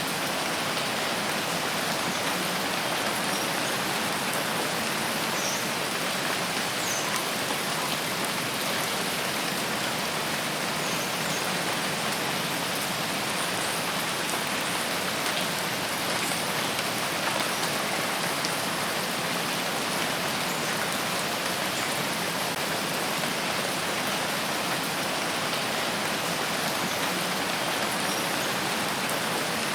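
Steady rain falling in a forest, an even hiss with no change in level, with a few faint high ticks scattered through it.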